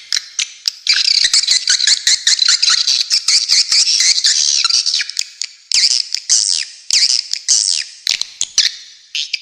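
Swiftlets calling: a dense, continuous twittering of rapid high chirps mixed with short clicks, easing briefly a little past halfway and again near the end.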